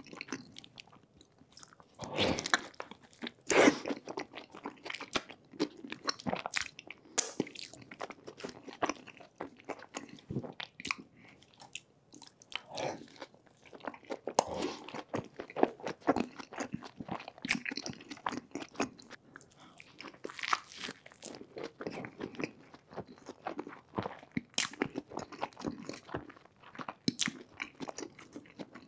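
Close-miked biting and chewing of a tortilla wrap dipped in cheese sauce: irregular wet mouth clicks and chewing sounds, with the loudest bites about two to four seconds in.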